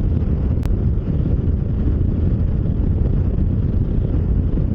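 Bajaj Dominar 400's single-cylinder engine running at road speed under a steady rush of wind buffeting the helmet-mounted microphone, with one brief click under a second in.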